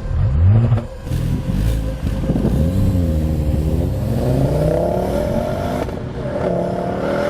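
Honda Civic Type R's turbocharged four-cylinder engine revving as the car accelerates, its pitch climbing and dropping back several times, like gear changes.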